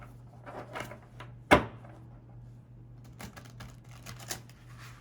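Tarot cards being handled, shuffled and laid down: short papery clicks and rustles, with one sharp tap about one and a half seconds in.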